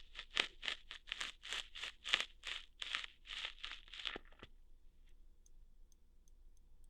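ASMR ear-hair plucking sounds: a quick run of short, crackly plucks, about four or five a second, that stops about two-thirds of the way through and leaves only faint ticks.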